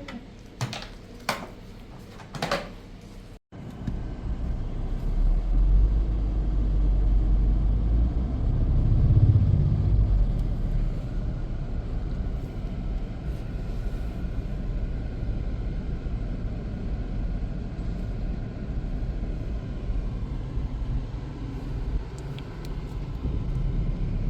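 A few sharp knocks, then, after a cut, the steady low rumble of a running motor vehicle.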